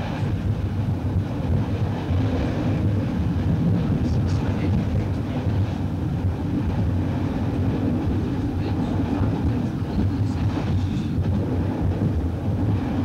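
Train running at speed, heard from inside the driving cab: a steady low rumble of the traction and wheels on the rails.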